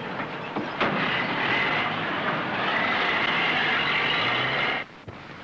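A car door slams shut about a second in, then an old open touring car's engine runs loud as the car pulls away. The loud running cuts off suddenly near the end, leaving a quieter steady hum.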